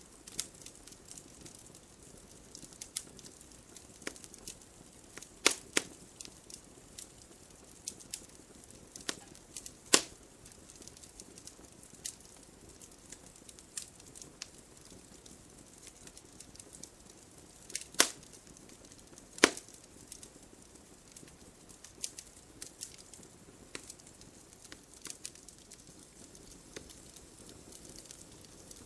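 Wood fire crackling in a fireplace: burning logs giving scattered sharp snaps and pops over a soft low hiss, with a few much louder pops.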